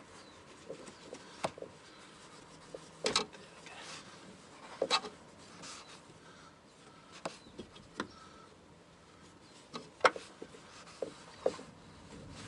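Cloth wiping and rubbing over the dirty top of a car's fuel pump assembly, with scattered light knocks and clicks at irregular intervals.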